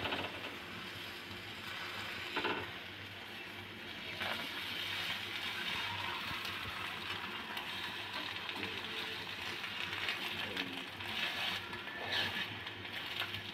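Egg paratha frying on a hot flat tawa, a steady sizzle, with a metal spatula scraping across the griddle a few times as the paratha is lifted and shaped.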